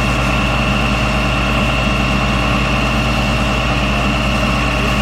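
A heavy engine running steadily, with a low hum and a steady high whine over it.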